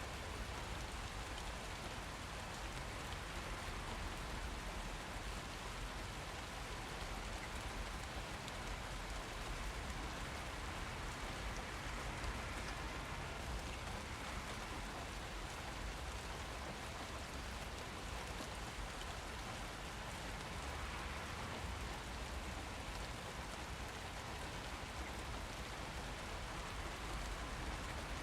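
Steady rain falling, an even hiss of drops on surfaces with a low rumble underneath.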